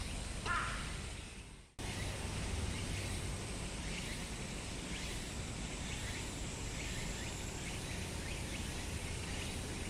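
Steady outdoor ambience of a wooded ravine: an even hiss with faint, short bird chirps and a thin, high, steady tone typical of cicadas. A bird call comes half a second in, then the sound fades and cuts off for a moment before the ambience resumes.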